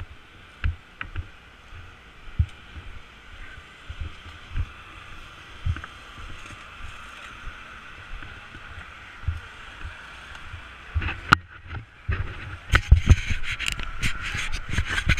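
Footsteps and the rustle of clothing and gear picked up by a body-worn action camera, with irregular soft thumps. About eleven seconds in come sharp clicks and knocks, then louder, busier rustling.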